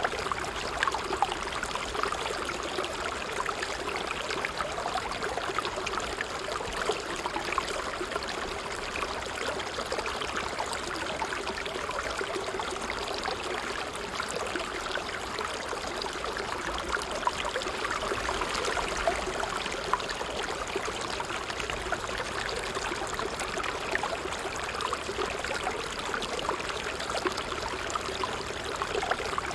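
Water trickling steadily over stones in a small stream, with many small quick splashes and gurgles.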